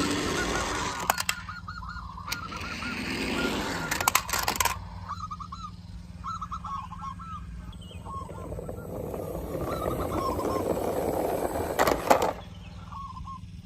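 Short bird-like calls repeated in quick runs, with a few sharp clicks and a steady low hum underneath.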